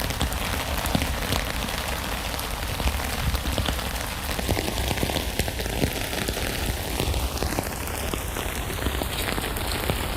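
Steady rain falling on a tent, a dense, even patter of many small drop impacts.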